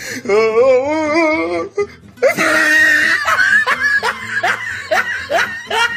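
A wavering held voice-like note for about the first two seconds, then a person laughing in quick repeated bursts.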